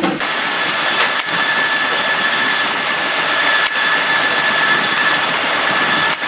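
Sawmill saw running with a steady high whine over a loud rushing hiss.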